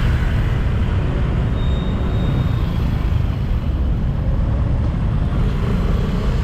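City road traffic heard from a bicycle: vehicles running and passing, with a heavy, steady low rumble.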